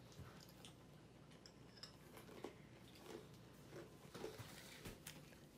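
Faint chewing of a spoonful of Sour Patch Kids cereal, with a few soft scattered clicks and crackles.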